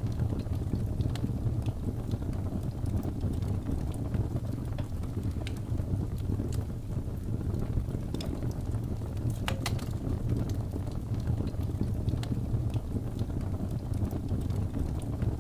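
Wood fire burning, a steady low rumble with scattered small crackles and one sharper pop about nine and a half seconds in.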